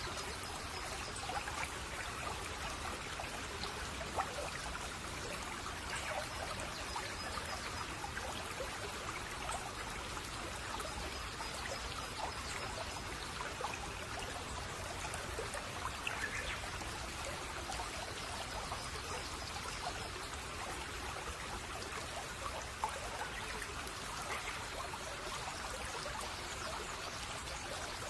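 Shallow brook babbling over stones, a steady trickling and gurgling flow.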